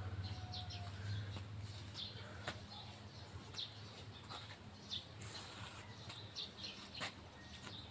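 Faint, scattered bird chirps over a low steady hum, with a few light clicks.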